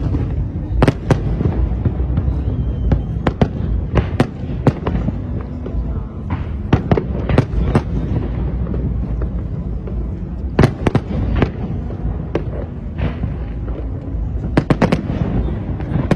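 Fireworks display going off: sharp bangs in irregular clusters over a steady low rumble of bursts and echoes.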